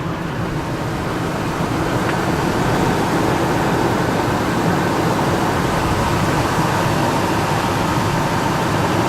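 1999 Ford F-150's 4.6 L Triton V8 idling, a steady running noise that grows louder over the first few seconds and then holds even.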